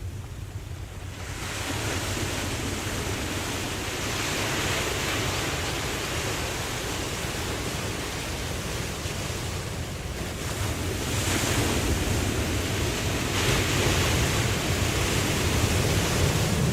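Ocean waves breaking and washing in, a steady surf noise that swells and falls in waves, with separate swells about a second in and again around 4, 11 and 14 seconds.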